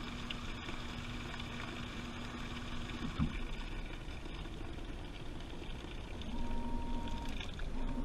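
Washing machine running a wash cycle, heard from inside the drum: water sloshing, with a steady motor hum that stops with a knock about three seconds in. The hum returns in short stretches with a higher whine near the end, as the drum turns one way and then the other.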